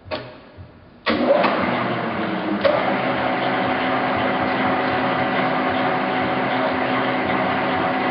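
Victor 2040 engine lathe, driven by a 10 HP motor, started up about a second in. Its spindle and gearing then run steadily with a constant mechanical hum.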